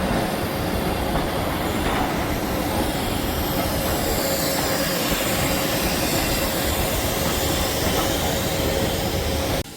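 Steady rumble and rail noise of a moving train, with a faint steady whine, cutting off suddenly near the end.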